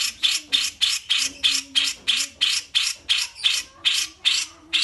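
A songbird repeating one harsh, buzzy call note in a fast, even series of about three to four notes a second.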